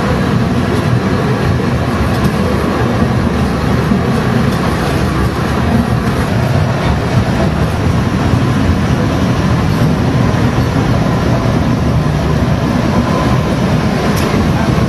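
Narrow-gauge Alishan Forest Railway train running steadily, an even rumble of wheels on track heard from aboard a carriage.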